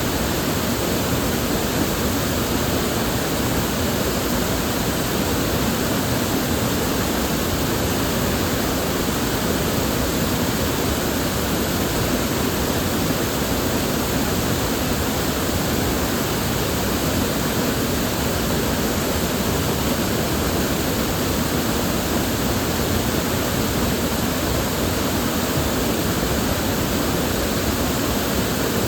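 River water flowing steadily, a continuous even rush with no breaks or separate splashes.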